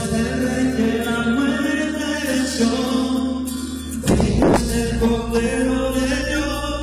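Live worship band playing during a sound check: held chords over a steady bass, with singing. A loud percussive hit comes about four seconds in.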